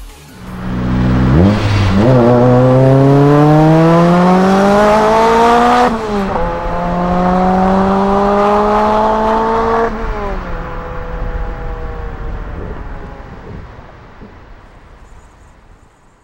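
Proton Arena pickup's engine accelerating hard. Its note climbs steadily through one gear, dips sharply at a gear change about six seconds in, and climbs again through the next gear. Around ten seconds in it drops off the throttle and fades away.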